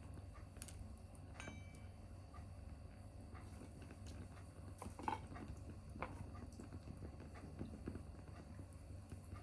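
Small tabletop wood fire crackling, with irregular faint snaps and pops, the sharpest about five seconds in, over a low steady hum.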